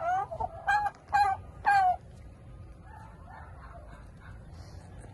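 A rooster crowing once, four syllables in about two seconds with the last one longest and falling in pitch, over low steady background noise.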